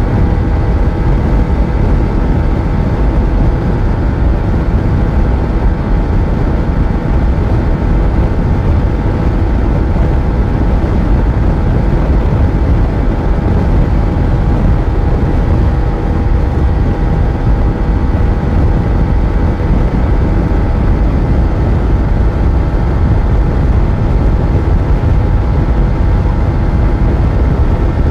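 Yamaha FZ1's inline-four engine running at a steady cruising speed on the move, its pitch holding level, over a heavy low rumble.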